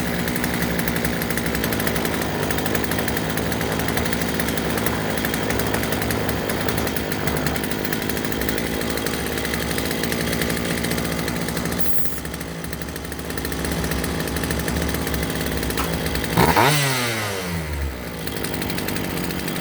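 Craftsman two-stroke chainsaw running steadily, now that its fuel lines have been replaced. Near the end it gives one sharp loud burst, then winds down in falling pitch as it is shut off.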